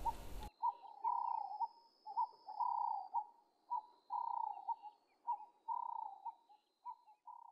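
A bird calling over and over: a series of short notes mixed with longer, slightly wavering whistled calls, each a fraction of a second, with brief pauses between them.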